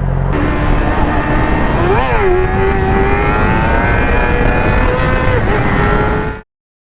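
A high-revving vehicle engine under hard acceleration with a rush of wind and road noise: a quick blip up and back about two seconds in, then a steady climb in pitch, a gear change just after five seconds, and a sudden cut-off about a second before the end.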